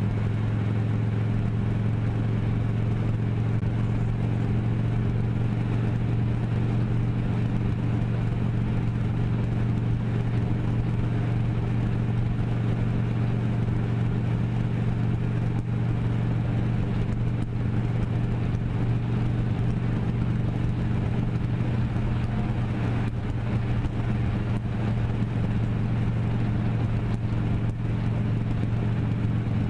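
Vehicle engine running at a steady speed while driving, a constant low hum that holds the same pitch throughout, with road and wind noise.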